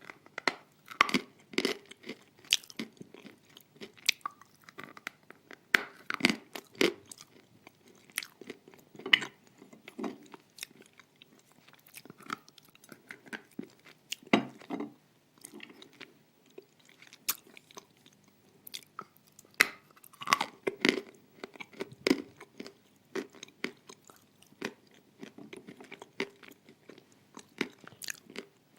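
Close-up crunching and chewing of hard pieces of edible clay, with irregular sharp crunches and softer grinding between them; the piece is described as hard as a stone.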